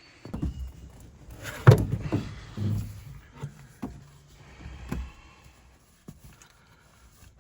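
Irregular knocks and clunks of parts being handled during hands-on work on a car, the loudest about a second and a half in, with a few more over the next few seconds.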